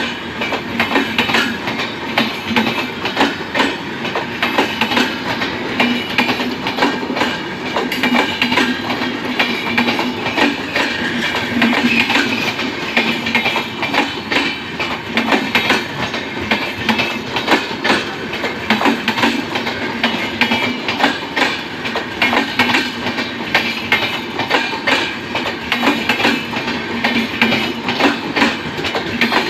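Wheels of an express train's LHB passenger coaches clattering over rail joints as the train rolls past, a continuous run of rapid, irregular clicks and knocks over a steady rumble.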